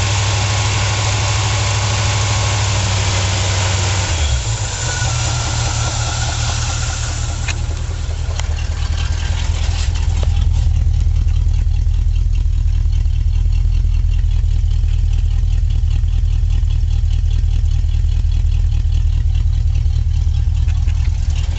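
The 1978 Chevy pickup's 350 four-barrel V8 running at idle with a steady low rumble. A hiss over it for the first several seconds dies down.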